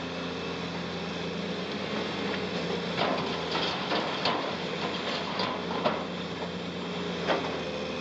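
Caterpillar 330C excavator's diesel engine running steadily, with a series of sharp knocks and clanks from about three seconds in as broken concrete is loaded into a tipper truck's steel body.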